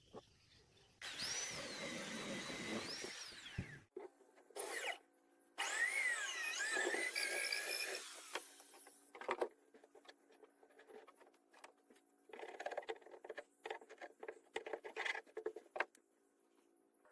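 Power drill running in bursts, its pitch rising and falling as the trigger is worked, typical of driving screws into wood. It is followed by a run of short clicks and knocks.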